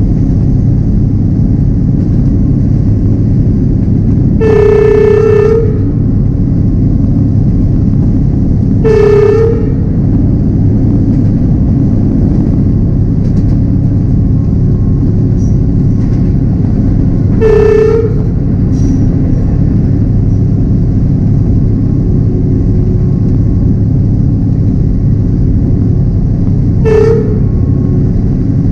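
Train running with a steady low rumble of wheels on track. Its horn sounds four times: a blast of about a second, two shorter toots, and a very brief toot near the end.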